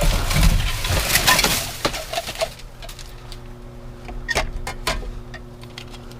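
Rustling and knocking of salvaged items being handled and moved, with many sharp clicks. It grows quieter after about two and a half seconds, leaving scattered clicks over a steady low hum.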